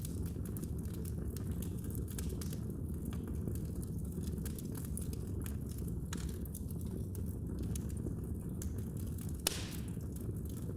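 Wood fire burning in a fireplace: a steady low rumble of flames with frequent small crackles, and one louder pop near the end.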